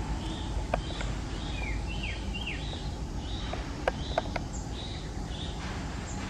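Birds chirping: a run of short high chirps and quick falling whistled notes, with a few sharp clicks, over a steady low background rumble.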